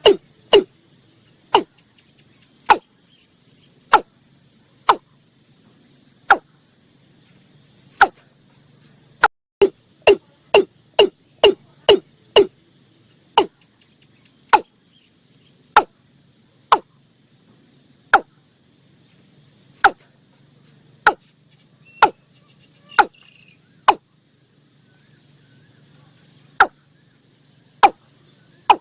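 Watercock calling: a long series of loud, short notes, each dropping in pitch, coming at uneven intervals and sometimes in quick runs of three or four. Insects buzz faintly behind.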